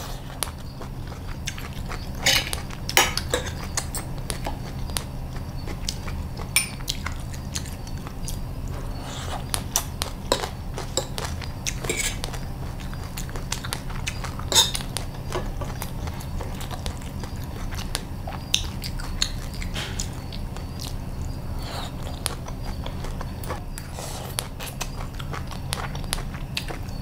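Close-miked chewing and mouth sounds of eating bột chiên (fried rice-flour cake with egg) and shredded green papaya, with a metal fork and spoon clicking and scraping on a plate. Scattered short clicks sit over a steady low hum.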